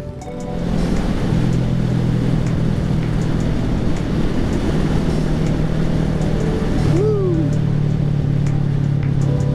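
Kawasaki Z650's parallel-twin engine through its Arrow exhaust, running at steady riding revs. The engine note dips right at the start and builds back within the first second, and a short rising-then-falling tone sounds about seven seconds in.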